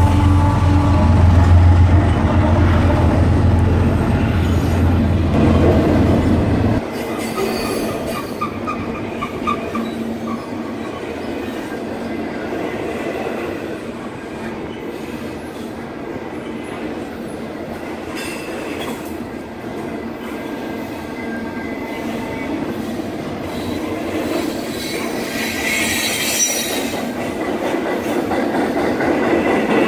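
BNSF diesel locomotives rumbling past with a deep engine drone that drops away abruptly about seven seconds in as the last unit goes by. Then double-stack intermodal well cars rolling by on the rails, their wheels squealing in short spells, most strongly near the end.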